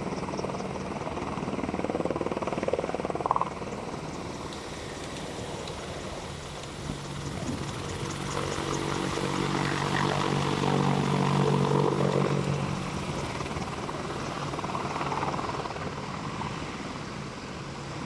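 UH-60 Black Hawk helicopter flying by: a steady rotor and turbine drone with a low hum that swells, is loudest about two thirds of the way through, then fades.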